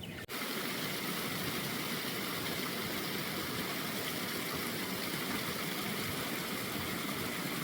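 Steady, even rush of water that starts abruptly a moment in and holds without change.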